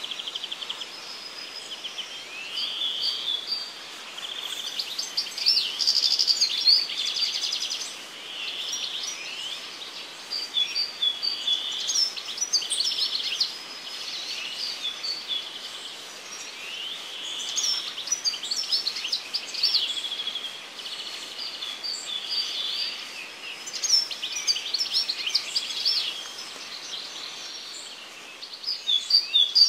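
Birdsong: several songbirds chirping and trilling in a busy, unbroken chorus of quick, high calls over faint outdoor background noise.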